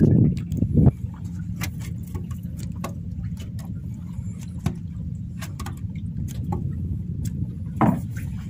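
A small boat's engine running steadily with a low hum, with scattered light clicks and a louder rumbling burst in the first second and again briefly near the end.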